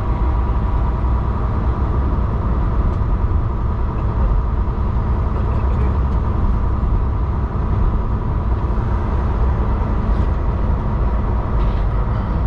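Steady, unbroken drone of a semi-truck's engine heard from inside the cab.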